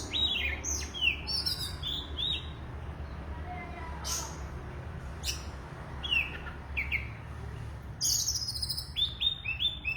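Oriental magpie-robin singing a varied, energetic song. Runs of quick down-slurred whistles alternate with high scratchy bursts and trills, in rapid phrases with short pauses.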